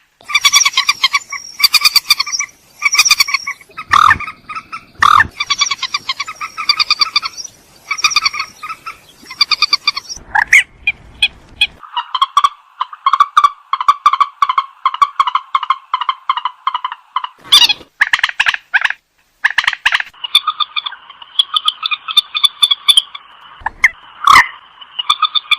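White-breasted waterhen (ruak-ruak) calling: long series of harsh, rapidly repeated croaking notes, changing about halfway through into a faster, lower continuous rattle. A few sharp clicks cut in.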